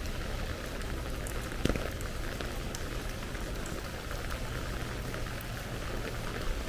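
Steady rain falling on a wet street, an even hiss flecked with small drop ticks, with one sharp tap about a second and a half in.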